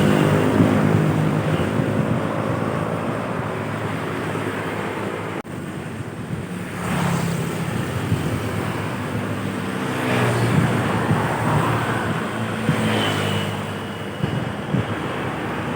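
Heavy trucks and buses running along a road, their engines droning over tyre and traffic noise. The sound cuts off abruptly about five seconds in and picks up again on another stretch of passing traffic.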